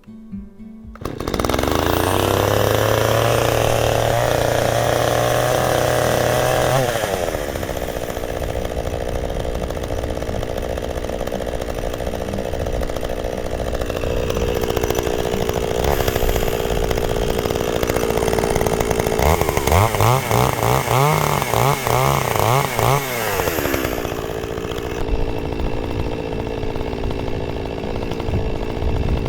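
Chainsaw starting about a second in and cutting firewood logs. The engine pitch rises and holds, wavers rapidly for a few seconds past the middle, then settles lower.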